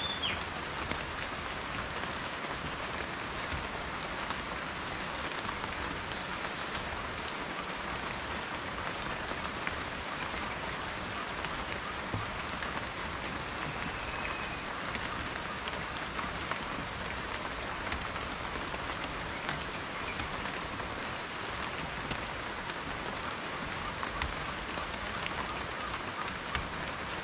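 Steady rain: an even hiss of falling rain with many small, sharp drop ticks.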